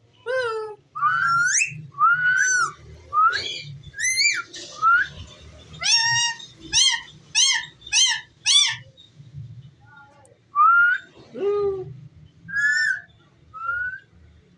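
Indian ringneck parakeet whistling: a quick string of short, rising and falling whistled notes, with a run of five evenly spaced notes about six seconds in.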